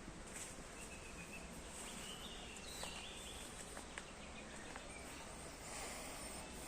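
Faint outdoor ambience with a few short, high bird chirps about one and a half, two to three and a half, and five seconds in, and a few faint clicks.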